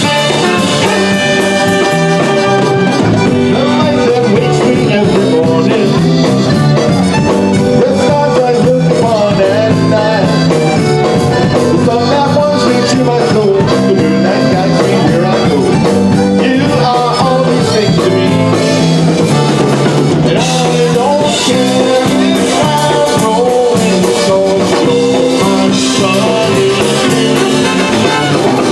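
Polka band playing live, with brass and drum kit over a steady beat.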